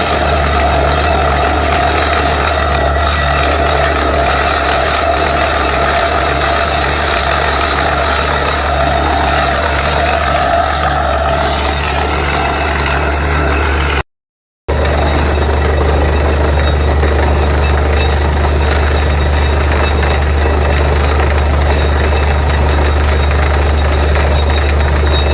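Borewell drilling rig running hard: a heavy diesel engine drone with a steady rhythmic throb under it. The sound breaks off for about half a second around the middle, then carries on.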